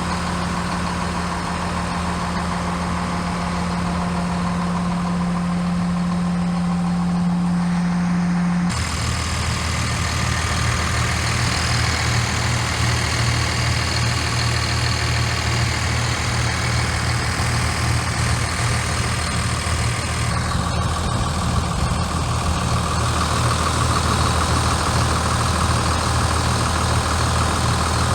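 Engine of an FLX 4510 machine running steadily at idle. About nine seconds in the sound changes abruptly, a steady hum giving way to a deeper, fuller running note.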